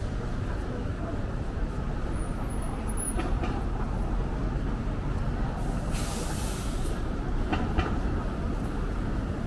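Busan subway Line 2 train running with a steady deep rumble, with faint high wheel squeal and a short hiss about six seconds in.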